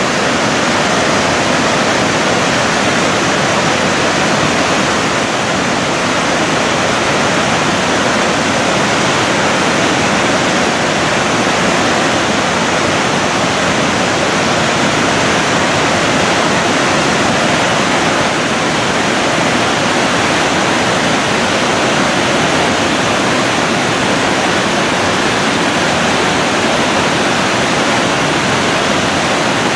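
Thi Lo Su waterfall: a large cascade giving a steady, loud rush of falling water that does not change.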